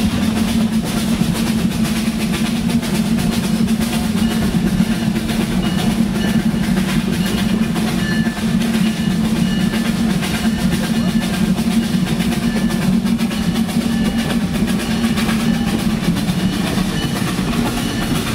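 Steady rumble and rattle of a train rolling along, heard from an open car coupled behind a moving steam locomotive. Thin high tones come and go from about four seconds in.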